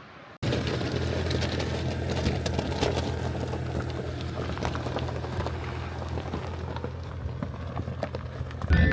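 Car on the move: a steady low engine and road drone with tyre noise. It starts abruptly about half a second in.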